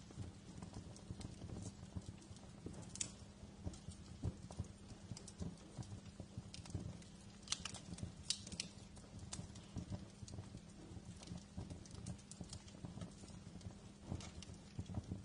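Wood fire crackling in a fireplace: a steady low rumble with frequent, irregular sharp pops and snaps, and a quick cluster of louder pops about eight seconds in.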